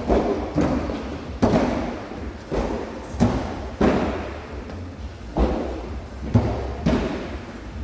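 Repeated heavy thuds of workout equipment hitting a gym floor, about ten at uneven intervals, each with a short echo.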